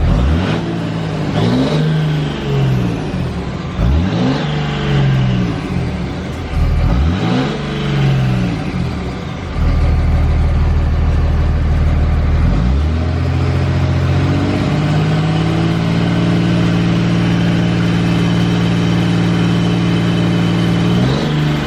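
Cummins inline-six turbo-diesel truck engine revved three times in quick blips, settling back to idle, then held at a raised steady speed for several seconds before dropping near the end. It is run with the turbo's intake tube off, to check whether a broken drill-bit fragment has passed through the turbocharger.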